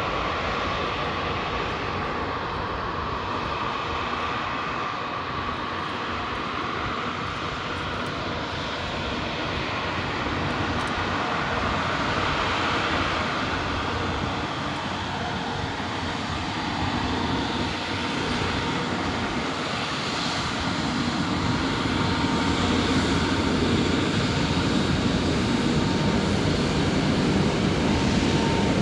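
Airbus A350-900's Rolls-Royce Trent XWB jet engines running, a steady noise with a faint high whine, growing louder over the last several seconds.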